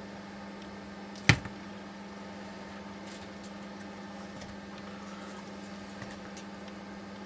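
A steady low hum, with one sharp knock about a second in, a smaller one right after, and a few faint clicks later.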